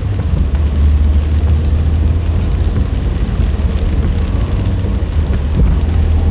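Car driving in heavy rain: a steady low rumble from the road with an even hiss of rain.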